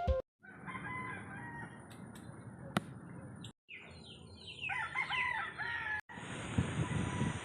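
Chickens calling, with hens clucking and a rooster crowing, in a few short clips joined by abrupt cuts. The busiest stretch of calls comes a little past the middle.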